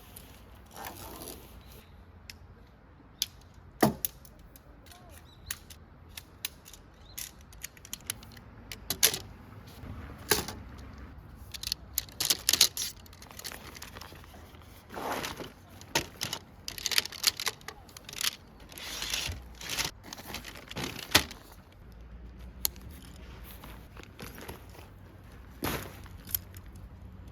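Scattered clicks, taps and rustling of small objects being handled, with a sharp knock about four seconds in and busier clusters near the middle and about two-thirds of the way through.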